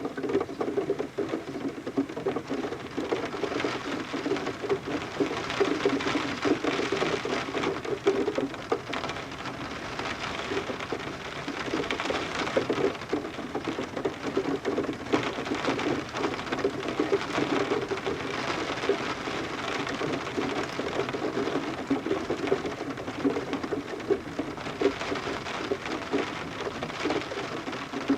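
Rain pattering on a window pane, heard from inside, a dense steady patter of many small drop ticks with water dripping.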